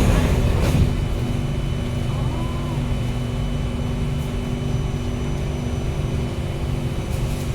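Steady hum of an Alstom Metropolis C830 metro train: a low rumble with a few constant, even whining tones from its electrical equipment, holding level throughout.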